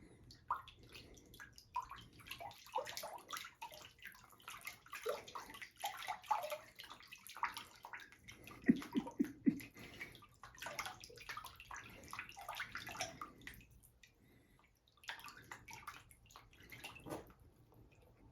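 Water splashing and dripping in a sink or tub in faint, irregular spurts as a cat paws at a stream of water, with a few louder splashes about halfway through and a brief lull near the end.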